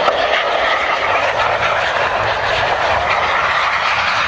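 Aircraft engines running with a steady, even rush of noise.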